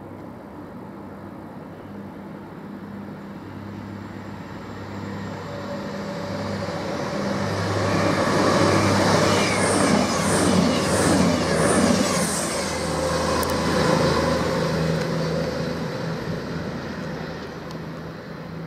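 High-speed express passenger train passing through a station without stopping: it builds up as it approaches, is loudest about halfway through, then fades as it runs away. A steady low hum from the train drops in pitch as it goes by.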